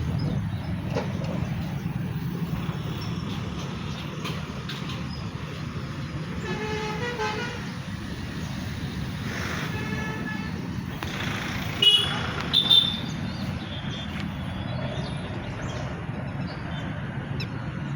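Road traffic with a steady low rumble of engines and tyres, and vehicle horns honking now and then; two loud short honks come about twelve seconds in.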